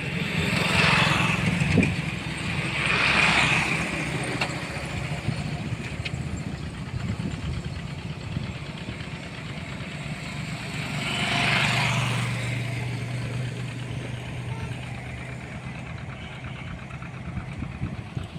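A motor engine running steadily, with three louder rushing swells: two in the first few seconds and one about twelve seconds in.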